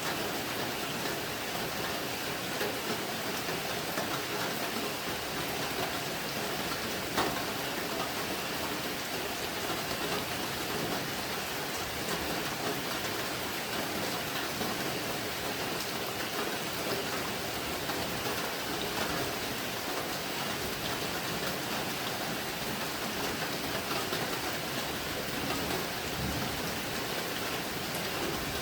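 Steady rain falling, an even hiss with scattered sharper drip ticks; one louder tick about seven seconds in.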